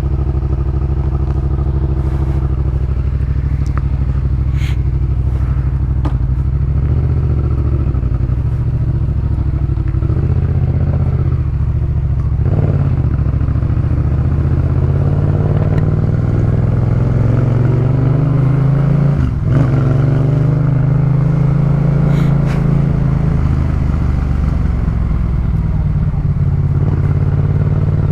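Yamaha MT-07's parallel-twin engine breathing through a Jeskap K4 full exhaust system, running loud and steady under way, its pitch rising and falling a few times with throttle and gear changes.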